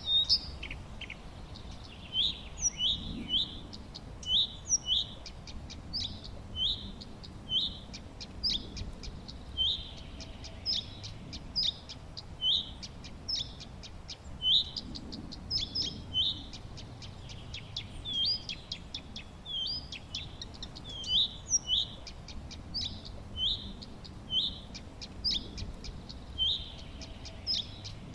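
Songbirds chirping: short, high, hooked notes repeated about once or twice a second, over fainter quick ticking calls.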